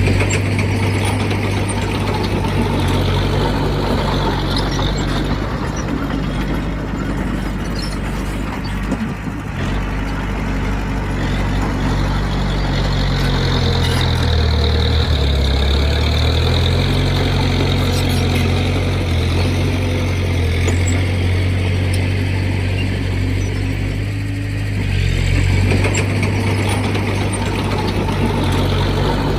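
Diesel engine of heavy earthmoving equipment running continuously under work, its pitch dropping and rising a few times.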